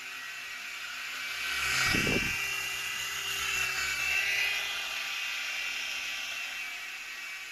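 Mini RC helicopter's motors and rotor whirring with a steady high-pitched whine as it hovers, swelling louder about two seconds in with a brief low rumble, then settling back.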